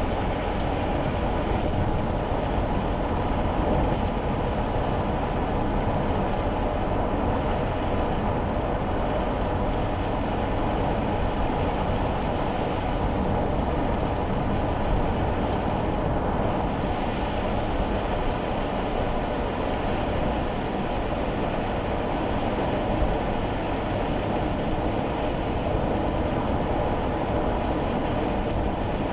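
Steady road and engine noise heard inside a kei car's cabin while driving on wet roads in the rain.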